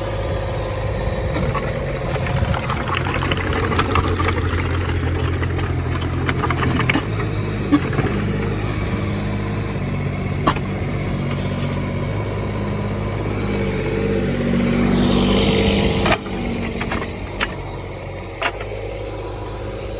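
Kubota U-10-2 mini excavator's three-cylinder diesel engine running while its hydraulic controls are worked, the engine note shifting under load. Occasional sharp metallic clanks come through, several of them in the last few seconds.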